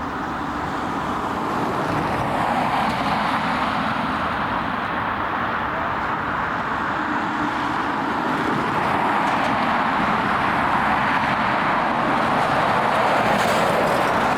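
Jet airliner engine noise, a steady rushing sound that builds over the first couple of seconds and then holds.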